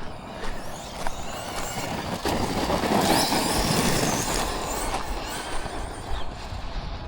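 Arrma Notorious RC monster truck driving over loose dirt, its brushless motor whining over the tyre noise. The sound builds to its loudest about three to four seconds in, then fades.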